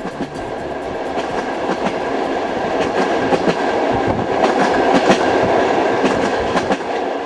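Train running over the rails: a steady rumble with many rapid wheel clacks from the rail joints. It grows louder to a peak about five seconds in and eases off near the end.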